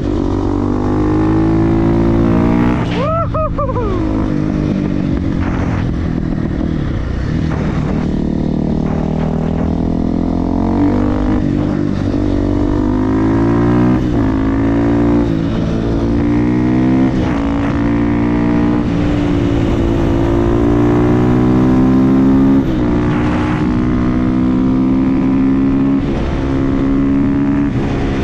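Supermoto motorcycle with an FMF exhaust being ridden hard. The engine note climbs and drops again and again as it accelerates through the gears and backs off, with a couple of brief sharp falling whines.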